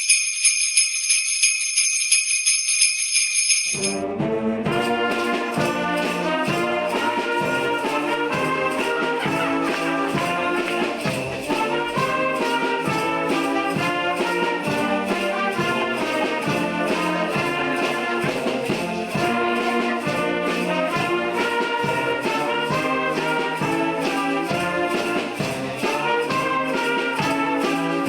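Jingle bells shaking for about four seconds, then a brass band starts an upbeat holiday tune with a steady beat, trumpets and trombones carrying the melody.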